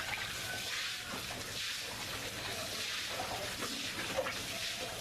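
Water spraying onto pigs as they are washed down, the hiss swelling and fading in surges. A few short pig grunts come through about three to four seconds in.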